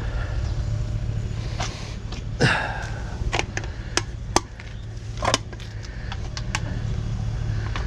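A vehicle running with a steady low rumble, with a handful of sharp clicks and knocks over it, the loudest about two and a half seconds in and about four and a half seconds in.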